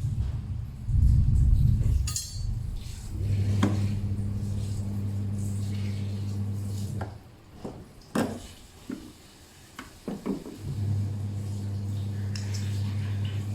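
Toshiba top-loading washing machine's motor humming in on-off stretches, with a loud rough rumble about a second in and sharp metallic clicks and knocks while the motor pauses. This is the loud noise that the owner puts down to a damaged drive coupler.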